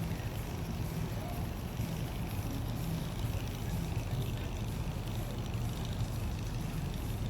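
A steady low engine rumble over a city background.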